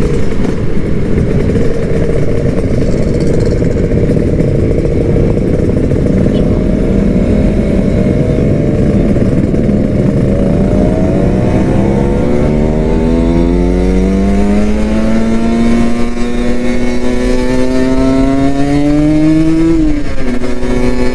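Kawasaki Ninja RR 150's two-stroke single-cylinder engine running under way: steady at first, then rising in pitch for about ten seconds as it accelerates, and dropping sharply near the end as the throttle is closed or the next gear is taken.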